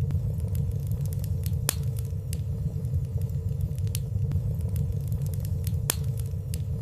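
Wood fire burning in a fireplace: a steady low rumble of flames with light crackles scattered through it, a few a second, and no loud pops.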